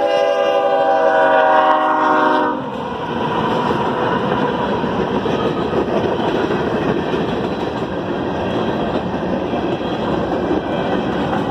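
Freight-train diesel locomotive's multi-note air horn sounding a blast that cuts off abruptly about two and a half seconds in. It is followed by the steady rumble and clatter of hopper cars rolling past over the rails.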